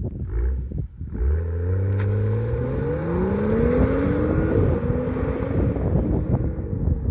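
BMW M235i's turbocharged 3.0-litre inline-six through an OEM M2 exhaust, accelerating hard: the engine note climbs steadily in pitch for about three seconds, drops sharply at an upshift around the middle, then carries on at a steadier pitch. A few short pops come in the first second, before the pull.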